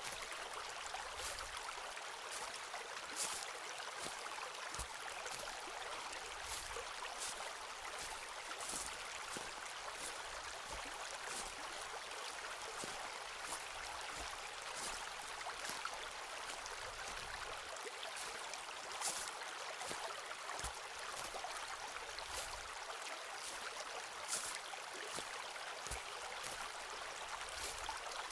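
Footsteps walking on a forest path, a soft crunch about once a second, over a steady rush of running water.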